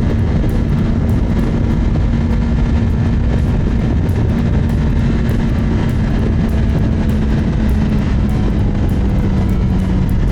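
2024 Kawasaki ZX10R's inline-four engine running at a steady cruising speed, with wind rushing over the rider's helmet-mounted microphone.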